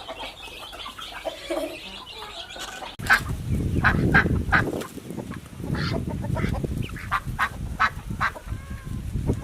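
Geese honking repeatedly, starting about three seconds in, over a loud low rumble.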